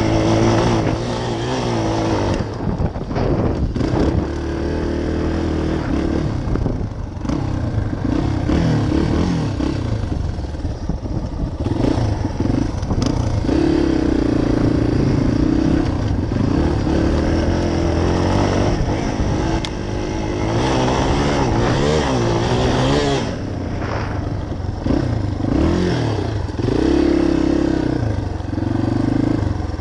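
Dirt bike engine being ridden hard, revving up and easing off again and again, its pitch rising and falling with the throttle and gear changes.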